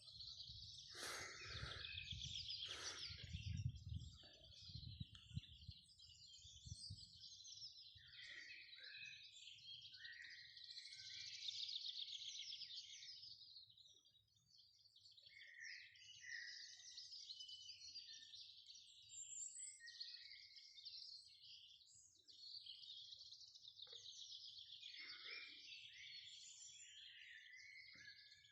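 Faint chorus of small songbirds chirping and singing continuously. A low rumble sits under the first few seconds, with two short sharp sounds about one and three seconds in.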